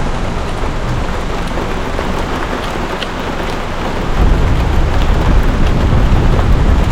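Heavy rain falling in a steady hiss, with a low rumble growing louder about four seconds in.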